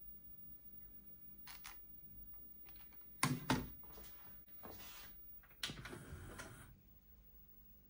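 Handling noises: a pair of light clicks, then two loud clicks about three seconds in, a short rustle, and a louder clatter with rustling near six seconds.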